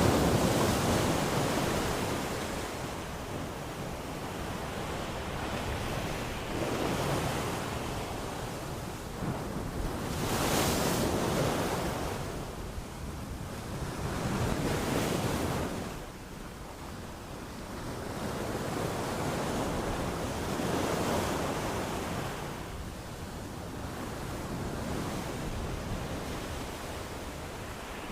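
Ocean waves breaking and washing up on a beach, swelling and ebbing every few seconds. The surge about eleven seconds in is the sharpest and hissiest.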